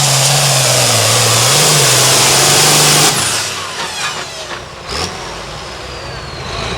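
Super Farm class pulling tractor's turbocharged diesel engine running flat out, then cut off suddenly about three seconds in. After the cut, a high whine winds down as the turbocharger spools down.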